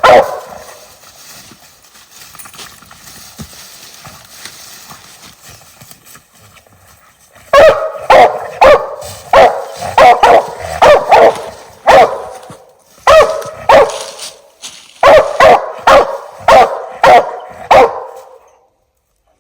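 Treeing Walker coonhound barking: a bark right at the start, then after a quiet stretch a run of about twenty loud barks, roughly two a second, that stops shortly before the end.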